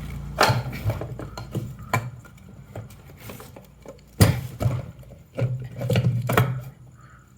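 Metal engine parts knocking and clattering as they are handled: a Honda Dio crankshaft with its timing chain being worked into the crankcase. Several sharp knocks, the loudest about four seconds in, with lighter rattling between them.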